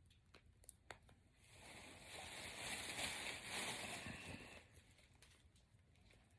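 Braided hair being unravelled during a box braid takedown: a few faint clicks, then a rustling, crinkling swell of about three seconds as the strands are worked apart.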